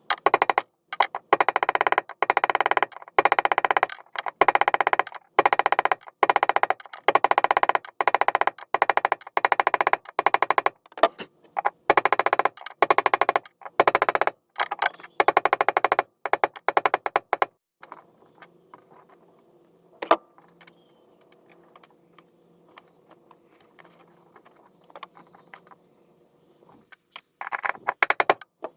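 Ratchet wrench clicking in quick repeated strokes, short runs of rapid clicks with brief pauses, as bolts are driven during the fuel pump reassembly. It stops about two-thirds of the way through, leaving a faint background with a single click and a last short run of clicks near the end.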